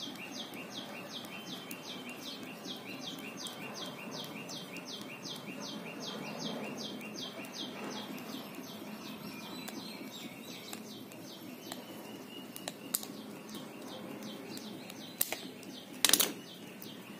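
A small bird calling a short, high, falling chirp over and over, about four a second. Beneath it is faint handling noise of pliers working a plastic pump, with a few sharp clicks and a louder knock near the end.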